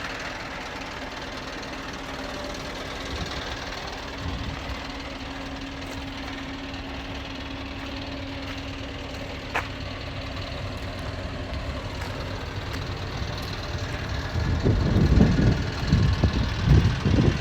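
Scania R580 tractor unit's 16-litre V8 diesel idling steadily, with one sharp click about ten seconds in. Near the end come a few seconds of louder, uneven low rumbling.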